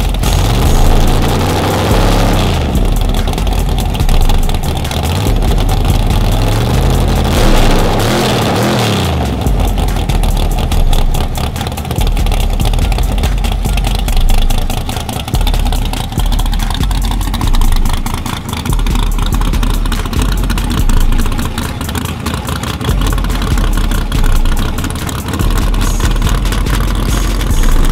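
Fox-body Mustang drag car's engine running loud through an open side-exit exhaust. It revs up and down in the first couple of seconds and again about eight seconds in, and otherwise runs steadily with repeated small surges.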